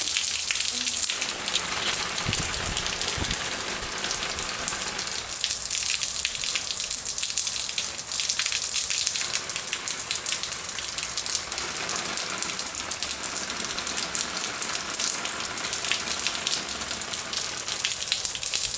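Steady rain falling and pattering on surfaces: a continuous hiss full of small drop impacts. A few low thumps come about two to three seconds in.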